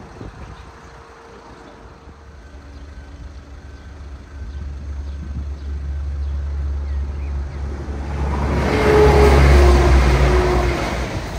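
ScotRail electric multiple unit passing over the level crossing: a low rumble that builds for several seconds, loudest about nine to ten seconds in as the train goes by with a rushing noise of wheels on rail, then fading.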